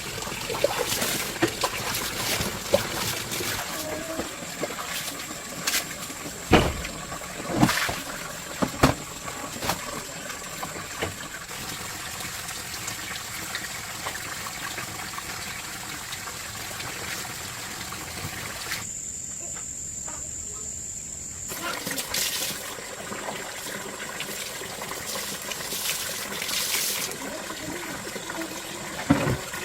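Water trickling and dripping in the rain, under a steady high-pitched whine. There are several sharp knocks between about six and nine seconds in.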